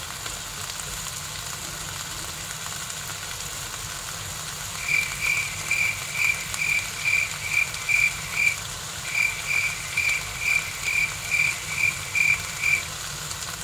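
Cabbage and bok choy sizzling faintly in a wok. From about five seconds in, a high-pitched tone pulses about twice a second, pauses briefly, then stops near the end.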